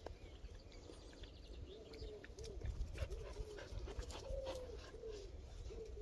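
A dog whimpering in a run of short, rising-and-falling whines, with faint clicks among them.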